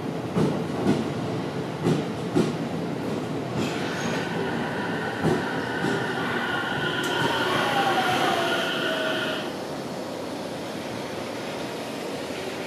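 JR Central 313 series electric train running slowly along the platform, its wheels knocking over rail joints several times. A high whine and squeal falls in pitch as the train slows, then stops about nine and a half seconds in.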